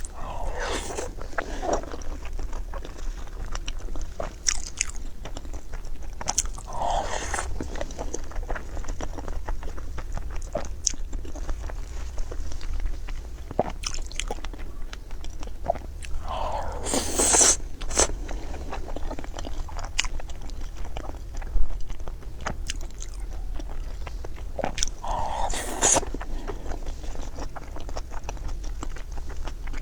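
Close-miked eating: a person biting and chewing with wet smacks and small clicks throughout, and four bigger crunching bites near the start and at about 7, 17 and 26 seconds.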